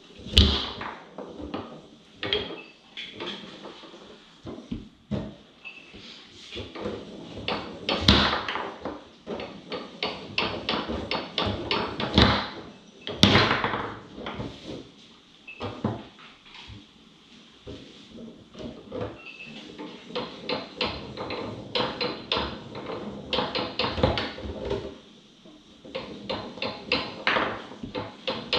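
Foosball being played on a Tornado table: a stream of hard plastic clacks and knocks as the rod men strike and pin the ball and it rattles off the table walls, with a few much louder hard hits.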